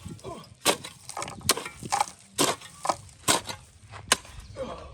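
Five sharp knocks at an even pace, a little over one a second, like repeated blows of a tool, with faint voice sounds between them.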